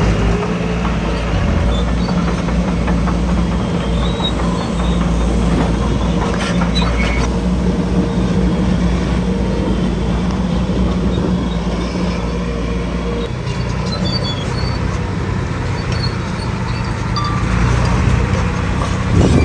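Heavy diesel earthmoving machinery running steadily under load, with a few short knocks about a third of the way in and a brief louder clank near the end.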